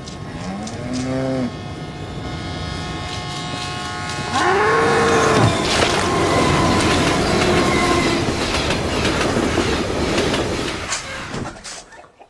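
A cow moos twice, briefly near the start and again, louder, about four and a half seconds in, while a train passes with loud running noise and a steady high tone over it. The train noise cuts off suddenly near the end.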